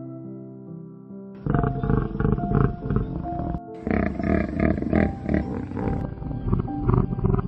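Background music, then from about a second and a half in, a large wild animal's loud, rough calls over the music, with short breaks about two seconds and four and a half seconds in.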